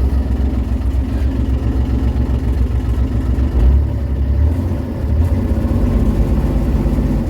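Diesel engine running on its own, a steady low rumble. The owner says it isn't running well and suspects worn injectors.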